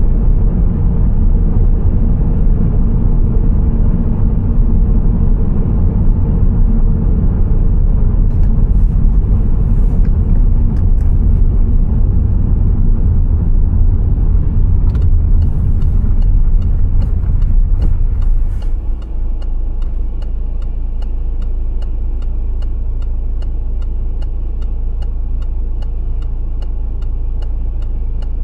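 Car driving, with a loud low rumble of road and engine noise. About two-thirds of the way through the rumble drops suddenly to a quieter steady hum, with a regular ticking a few times a second.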